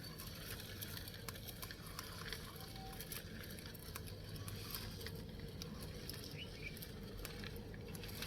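Plastic wheels of toy trucks rolling over gritty ground: faint, irregular light clicks and crackles.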